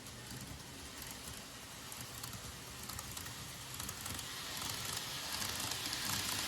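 N-gauge model train running along the track: a steady rolling hiss with small clicks, growing steadily louder as it comes nearer.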